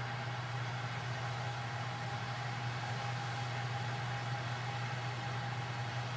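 Case IH 5088 combine running steadily under harvest load: an unchanging low hum with a thin, steady higher whine over a haze of machine noise.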